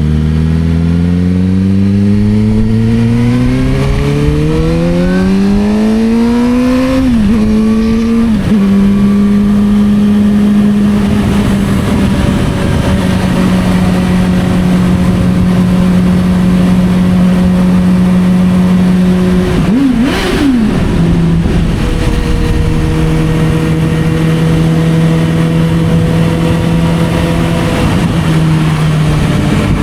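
Suzuki GSR600 inline-four engine through an aftermarket Dominator exhaust, on the move: revs rise steadily for the first seven seconds, there is a gear change about seven to eight seconds in, then it holds a steady note. A brief drop and blip around twenty seconds in, then steady running again.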